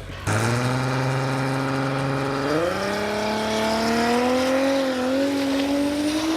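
A 1200-horsepower drag racer's engine at full throttle on a run down the strip. It starts suddenly and holds one steady pitch for about two seconds, then jumps up and keeps climbing as it accelerates.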